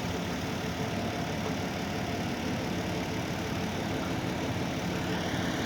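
Excavator diesel engine running steadily while the machine is unloaded from a shipping container. A faint high tone joins near the end.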